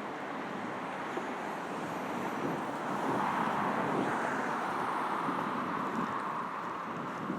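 Road traffic on a busy multi-lane road: a steady wash of tyre and engine noise that swells as vehicles pass about three to five seconds in.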